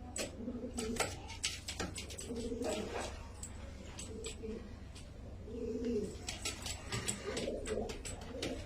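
Domestic pigeons cooing, several low throaty coos in short repeated phrases, with scattered sharp clicks and taps among them.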